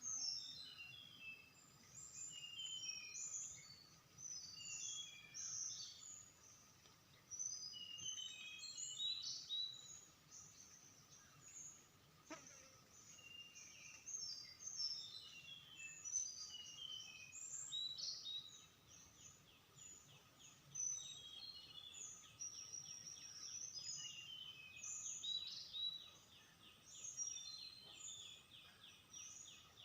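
Small wild songbird, locally called tledekan, singing actively in repeated bursts of short, high chirping notes, many in quick falling runs. From about two-thirds of the way in, a steady, fast, rattling trill runs underneath.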